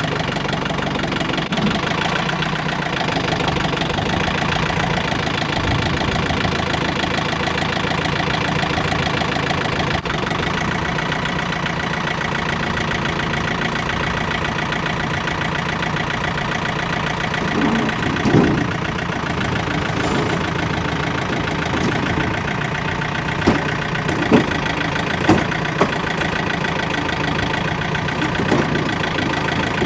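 Engine of a loading machine running steadily, with several sharp knocks and thumps in the second half as firewood loads are handled.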